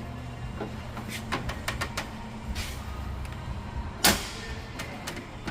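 A run of light clicks and knocks from hands working on parts, over a steady low hum, with one sharp, loud knock about four seconds in.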